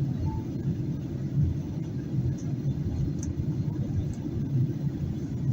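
Steady low rumble inside the cabin of a Boeing 737-800 during descent: airflow and engine noise.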